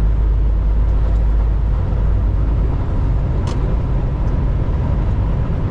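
Semi-truck driving, heard from inside the cab: a steady low rumble of engine and road noise, with one brief click about three and a half seconds in.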